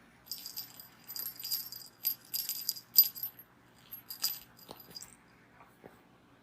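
A cat toy jingling and rattling in quick, irregular bursts as a kitten bats at it, with a high ringing like a small bell; it stops about five seconds in, followed by a few soft knocks.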